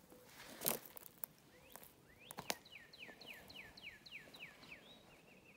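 A songbird singing a run of about ten quick down-slurred whistles, then a short trill near the end. A couple of sharp thumps come earlier, the loudest about a second in.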